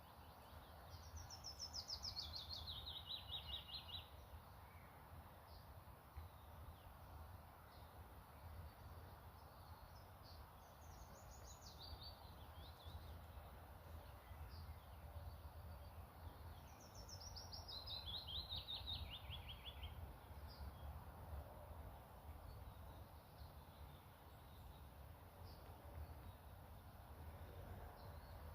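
A songbird singing three times, each song a fast trill of repeated notes stepping down in pitch. The first and last songs last about three seconds and the middle one is shorter. A faint low rumble runs beneath.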